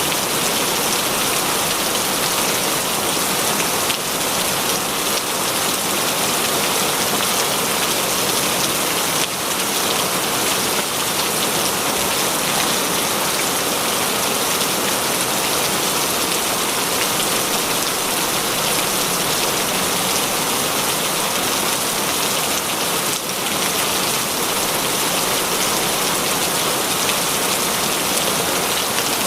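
Heavy rain falling steadily, an even hiss of dense drops with no letup.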